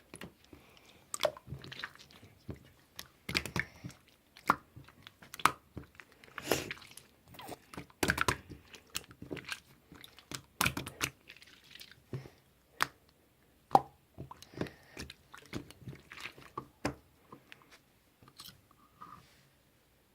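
Slime being squeezed, stretched and poked by hand, giving irregular crackling, clicking and popping sounds that die down over the last few seconds.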